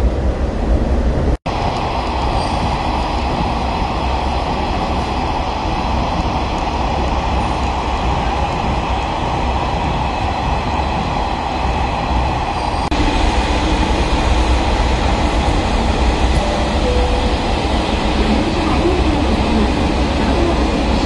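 Steady running noise of the Futatsuboshi 4047 diesel railcar, a low rumble of engine and wheels on the rails, a little louder from about halfway through. The sound cuts out for an instant about a second in.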